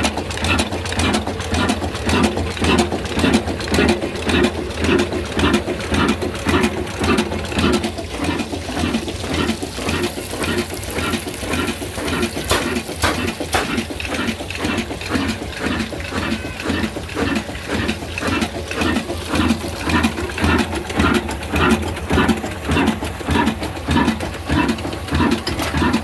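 Old stationary diesel engine running steadily, its exhaust beating at a few even beats a second over a low hum.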